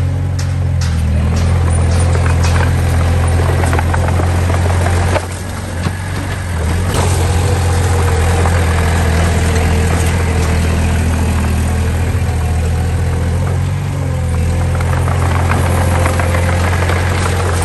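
Heavy-machine diesel engine, from a dump truck or small bulldozer, running steadily with a deep, low note. A few sharp knocks come in the first couple of seconds, and the engine dips briefly about five seconds in.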